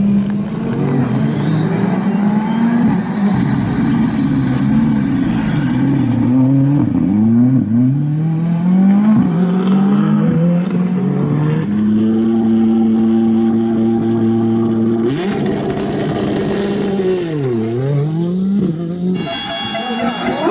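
Ford Fiesta R5 rally car's turbocharged 1.6-litre four-cylinder engine driven hard, its pitch climbing and dropping again and again through the gears. In the middle it holds one steady note for a few seconds, then near the end the revs fall sharply and climb back.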